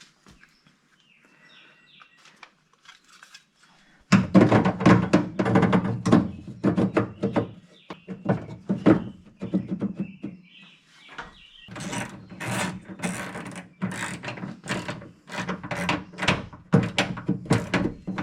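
Rapid runs of clicks and knocks from working on a car's door handle and lock mechanism. They start about four seconds in after a faint start, with a short lull in the middle.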